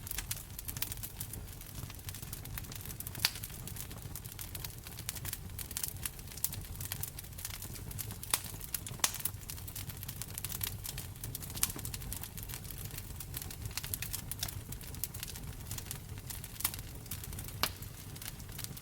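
Wood fire crackling in a fireplace: a dense, irregular run of small pops and snaps over a low rumble of the flames, with a few sharper pops standing out.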